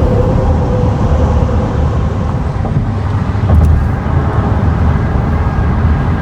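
Steady road and engine rumble of a car at highway speed, heard from inside the car, with a brief swell about three and a half seconds in.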